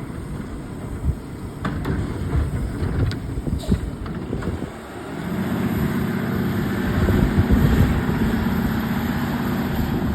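Garbage truck engine running, with a few sharp clanks early on. About five seconds in, the engine note rises and then holds steady and louder.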